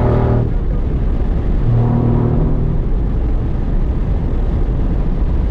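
Pontiac Firebird's engine and road noise heard inside the cabin while driving: a steady low rumble, with a short low droning tone at the start and again about two seconds in.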